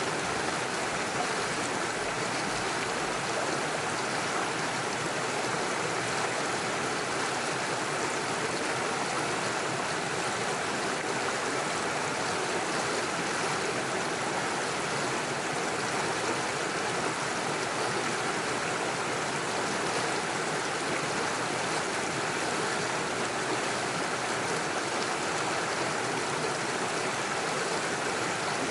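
Small forest stream running steadily over stones in small waterfalls, an even rushing and gurgling of water.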